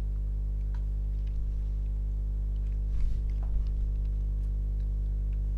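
Steady electrical mains hum, a low buzz with many overtones, with a few faint clicks.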